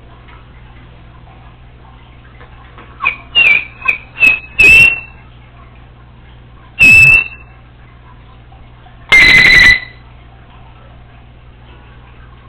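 Congo African grey parrot whistling: a quick run of five short whistled notes about three seconds in, a single note near seven seconds, and a longer, louder note near nine seconds.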